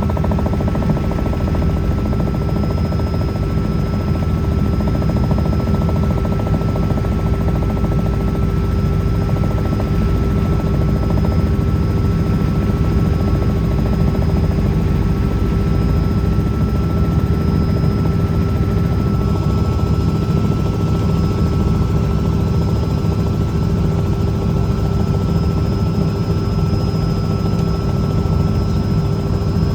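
Helicopter running steadily: a dense low rotor thrum with a steady whine over it.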